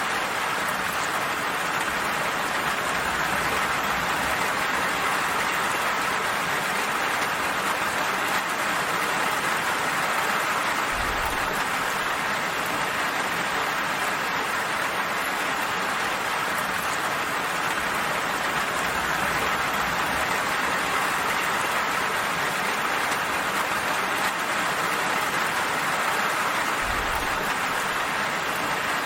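Steady rain falling, an even hiss of many drops with no let-up, with two brief low thuds at about 11 and 27 seconds in.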